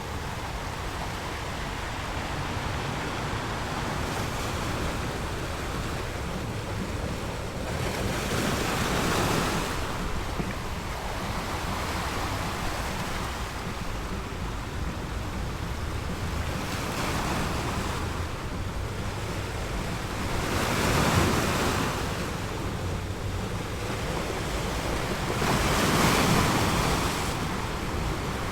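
Ocean waves washing ashore over a steady low rumble of surf, with about four waves breaking one after another, the last two the loudest.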